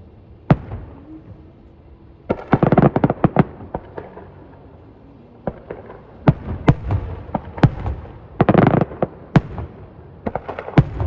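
Fireworks going off: separate sharp bangs scattered through, and two spells of rapid crackling, about two seconds in and again near the nine-second mark.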